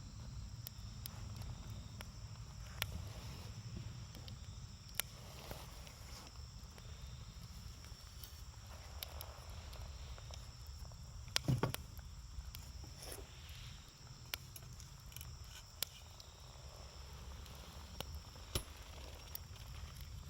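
Campfire burning: scattered sharp crackles and pops from the burning wood over a low steady rumble, with the loudest cluster of pops about halfway through.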